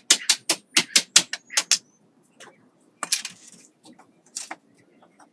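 A quick run of sharp taps or clicks, about four a second for two seconds, then a few scattered, louder knocks.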